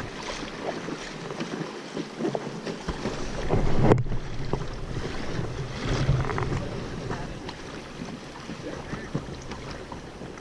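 River water rushing and splashing around a raft, with wind buffeting the microphone; loudest about four seconds in.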